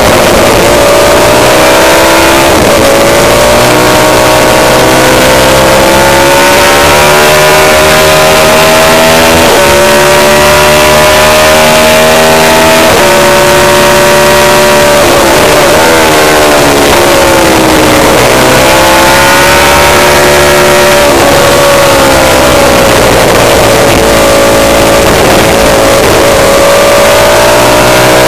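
Racing motorcycle engine running hard and loud, its pitch climbing under throttle and dropping in quick steps at gear changes. It falls and climbs again several times, as when braking into corners and accelerating out.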